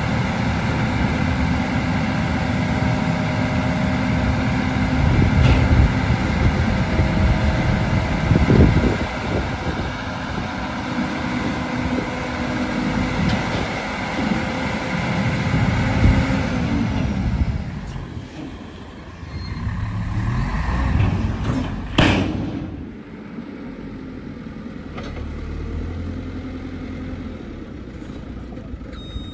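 Heavy diesel engines working hard, their pitch rising and falling as they rev and ease off under load. They drop back to a quieter idle in the last third. About 22 s in there is one brief, sharp burst of noise.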